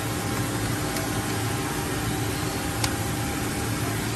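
Kiwa KMH300A horizontal machining center running with a steady hum and hiss, likely during a pallet change, with one sharp click about three seconds in.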